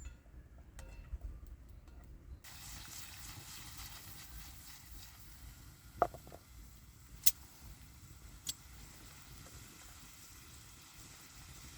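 Food frying in a hot pan, the sizzle starting abruptly a couple of seconds in and running on steadily, with a few sharp clicks of a utensil against the pan.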